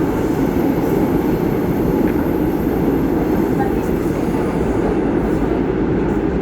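Subway train running, a loud steady noise that holds even throughout.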